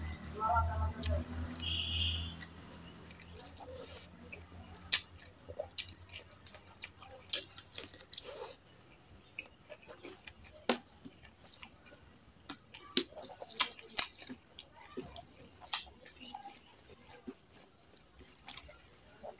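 Close-miked eating sounds: wet chewing with sharp mouth clicks and smacks as a mouthful of rice and mutton curry is chewed, with fingers squishing and mixing rice and curry on the plate.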